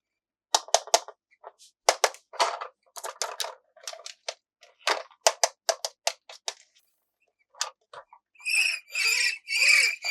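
Plastic toy packaging being handled: a quick, irregular run of sharp clicks and crackles. Near the end come three squeaky, wheezing bursts.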